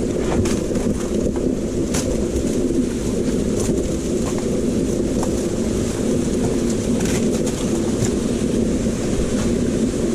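Waterfall's steady low rush of falling water, with a few faint clicks over it.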